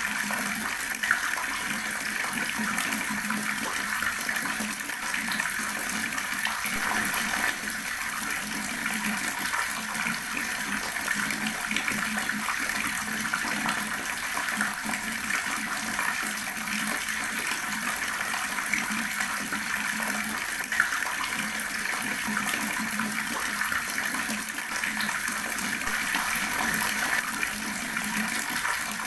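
Water running steadily from a tap and splashing below in a continuous even rush, with a small splash or knock about a second in and another around the twenty-second mark.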